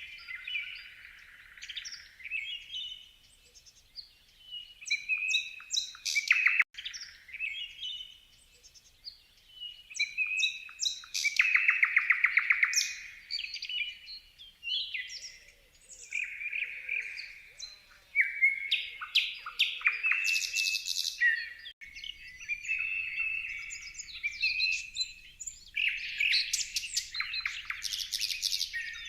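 Songbirds singing, a run of varied chirping phrases and fast trills of repeated notes, with short pauses between songs.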